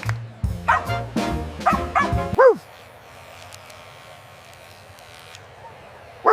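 Music with a steady beat, with dog yips and barks over it, ending about two and a half seconds in on one loud bark. Then only a low background hiss until a dog barks once right at the end.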